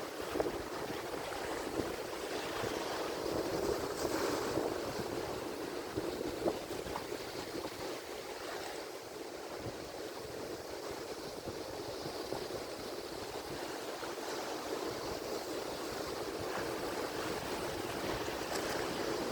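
Ocean surf: waves breaking and washing on the shore in a continuous rushing wash that swells and eases over several seconds.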